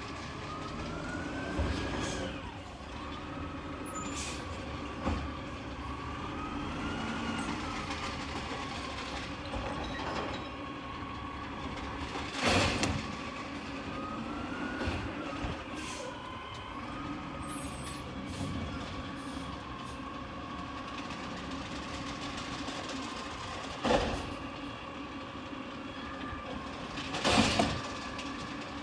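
Peterbilt 320 garbage truck's Amrep rear-loader packer cycling to mix the load: a whine that rises and falls with each stroke, about every six to seven seconds, over the truck's running noise. Three loud bangs come from the packer and refuse, one about halfway through and two near the end.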